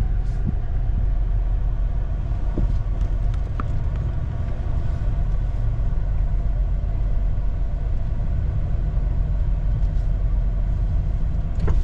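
Vehicle engine running steadily at a constant speed: an even low rumble with a faint steady hum above it.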